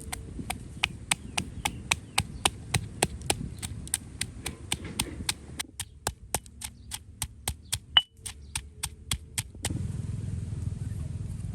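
Knife chopping on a cutting board: a long run of sharp, even knocks, about four a second, stopping near the end.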